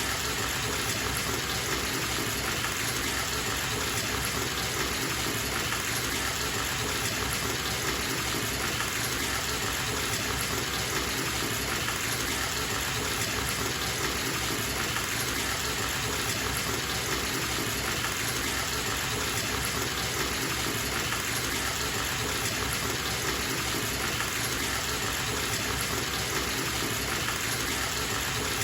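Bathtub filling from a running tap: a steady gush of water pouring into the tub, even and unchanging.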